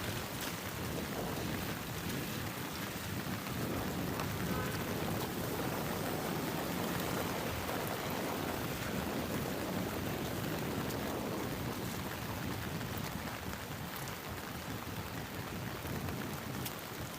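Steady heavy rain, with a low rumble swelling through the middle.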